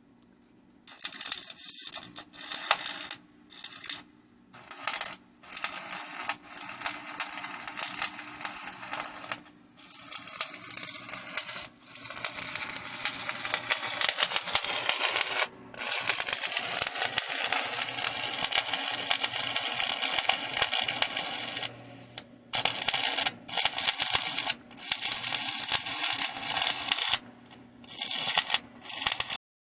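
Stick (arc) welding: the electrode's arc crackling and sizzling in runs, starting about a second in and broken off and restruck many times, with a long unbroken run in the middle.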